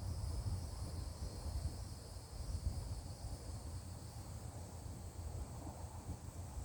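Faint outdoor ambience: an uneven low rumble of wind on the microphone, with a faint, steady, high-pitched insect chirring.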